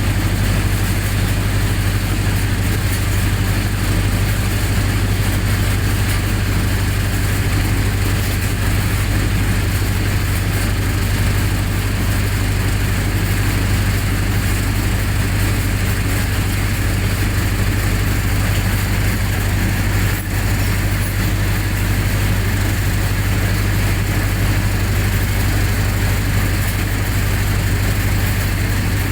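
Generator set engine running steadily at constant speed, an even low hum with no change in pitch.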